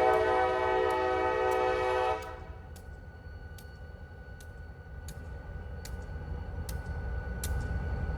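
Diesel locomotive air horn sounding a steady multi-note chord, cutting off abruptly about two seconds in. It leaves a low engine rumble with faint regular ticks about every 0.7 seconds.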